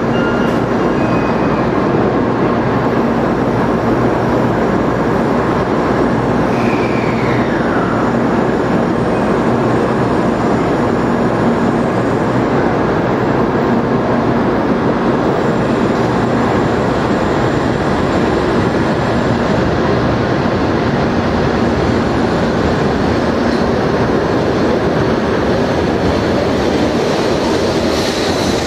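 A 16-car JR Central N700 Series Shinkansen pulls out of the station, its cars rolling past close by with a steady, loud rush of wheel and running noise. A brief falling whistle sounds about seven seconds in.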